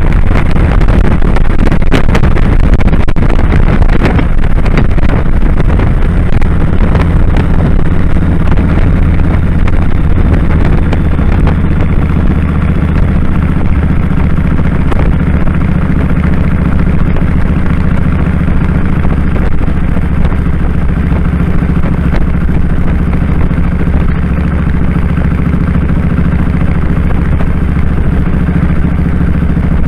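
2001 Kawasaki Drifter 1500's V-twin engine running while riding, with wind rushing over the microphone. The wind noise eases after about five seconds, leaving a steady engine note.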